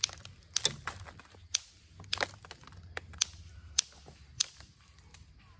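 Percussion flaking of Onondaga chert: a billet strikes the stone's edge in a series of sharp, irregular clicks, knocking flakes off to clear limestone inclusions from the spear-point preform.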